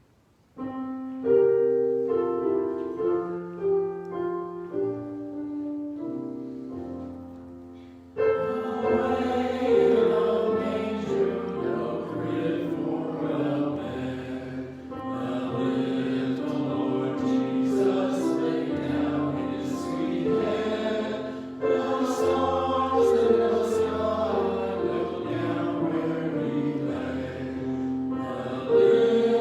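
A choir singing with instrumental accompaniment, after a short instrumental introduction; the voices come in about eight seconds in.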